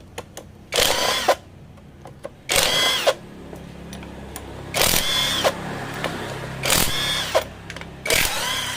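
A handheld power tool run in five short bursts, each about half a second, with a whine that winds down at the end of each burst, as it works the clutch nut off a motorcycle engine.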